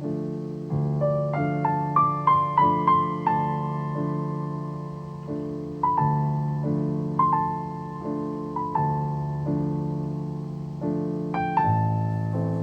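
Slow, gentle solo piano music: a melody of struck notes that ring and fade over held low chords.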